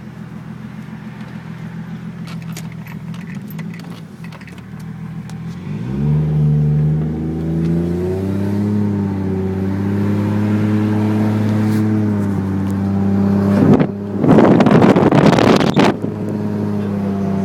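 Turbocharged Toyota Supra engine driven gently, kept off boost: it runs steadily, then rises in revs about six seconds in as the car picks up speed, and holds a steady cruise. Near the end a loud rushing noise covers it for about two seconds.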